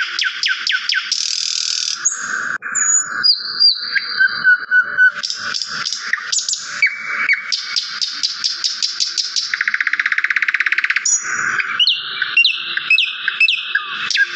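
Small songbirds chirping and singing continuously: runs of rapid chirps and short whistled notes, with a fast buzzy trill about two-thirds of the way through.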